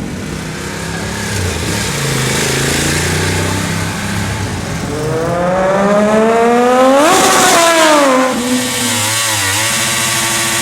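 Sport motorcycle accelerating hard: its engine note climbs steadily for about two seconds, peaks about seven seconds in, then falls away, over a low rumble of other engines.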